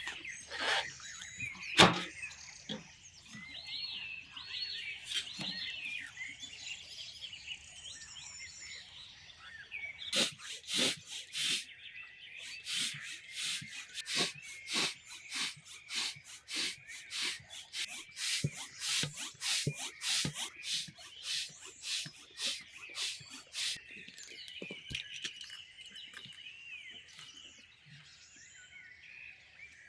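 Birds singing and chirping throughout. From about a third of the way in until about four-fifths through, a quick, irregular series of sharp knocks or clicks, about two or three a second, is louder than the birdsong.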